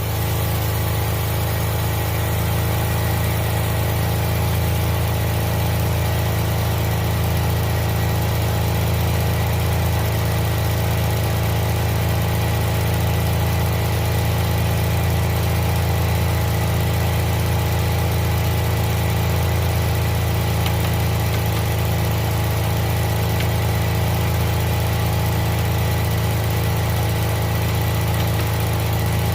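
Suzuki Jimny JA11's small three-cylinder engine idling steadily.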